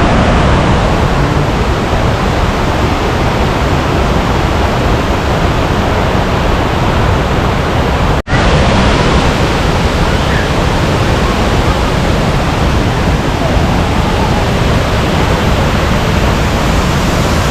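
Waterfall: a loud, steady rush of falling water that drops out for an instant about eight seconds in.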